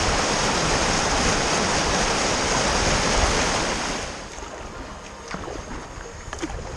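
Rushing water of shallow river rapids, a steady loud hiss that drops away sharply about four seconds in, leaving a quieter rush with a few small knocks.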